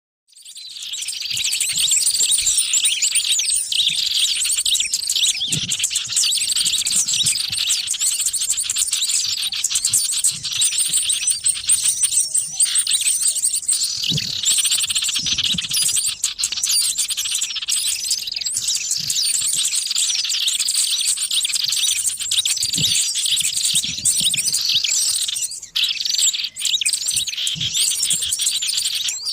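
A dense, unbroken chorus of many small birds chirping and twittering at once, a lure recording made to draw in small wild birds. It fades in over the first second or so.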